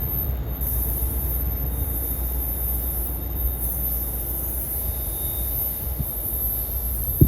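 Train running on the rails: a steady low rumble with a sharp click near the end.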